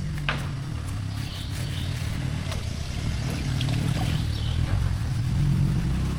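A motor running steadily with a low rumble, with a few light clicks on top.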